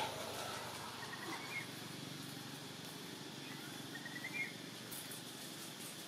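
Steady outdoor background hiss with faint short bird chirps, once about a second in and again a little after four seconds.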